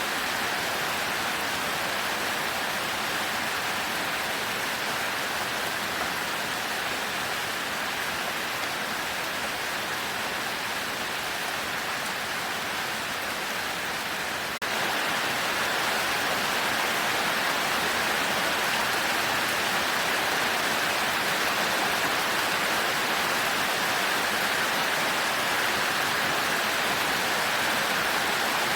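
Heavy rain falling steadily, a dense even hiss with no thunder. There is a brief dip about halfway through, after which the rain runs slightly louder.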